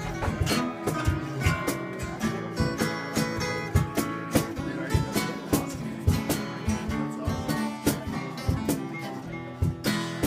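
Acoustic guitar playing an instrumental break in a blues song, strummed and picked in a steady rhythm.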